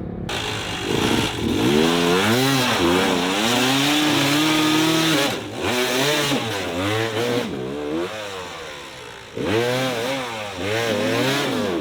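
Dirt bike engine revving up and down again and again as the throttle is worked, with a short dip about five seconds in and a loud burst of revving near the end.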